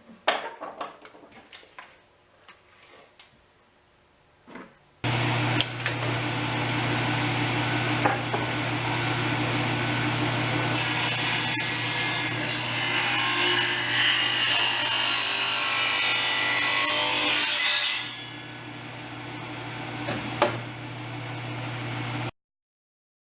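A few light knocks of wood being handled, then an electric power saw switches on about five seconds in with a steady motor hum and cuts through a strip of wood, the cutting noise loudest from about halfway through until the blade runs free again, cutting knots out of the lumber. The sound stops abruptly near the end.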